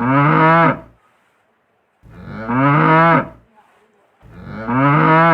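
A cow mooing three times, each low call lasting about a second and a half with short pauses between.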